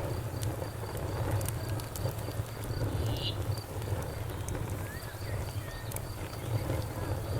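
Campfire crackling with scattered sharp pops over a low steady rumble, while a cricket chirps in an even, rapid pulse.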